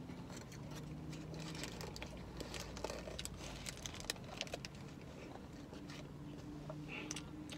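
Hamburger being bitten into and chewed close to the microphone: moist chewing with many small mouth clicks and crackles of its paper wrapper, busiest in the first half.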